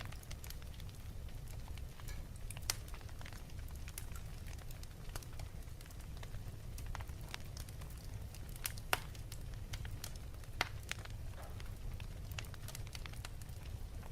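Wood fire in a fireplace crackling, with irregular snaps and pops over a steady low rumble; the sharpest pops come about three seconds in and again about nine seconds in.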